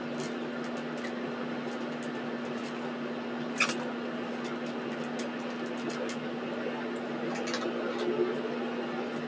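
Steady mechanical hum with a constant low tone, with faint scattered clicks and a sharper click about three and a half seconds in.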